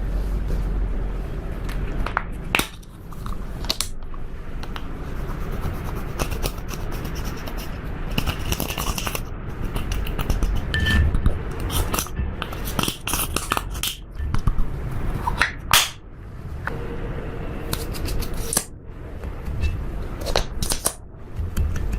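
Slime being squished and kneaded by hand, with steady sticky crackling and many sharp little pops and clicks.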